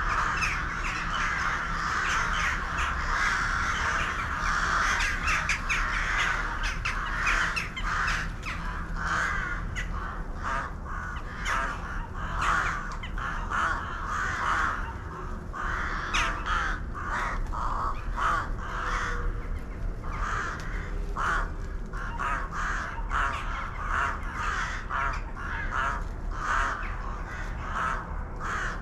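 A large flock of birds calling over one another, many short calls overlapping into a continuous chorus.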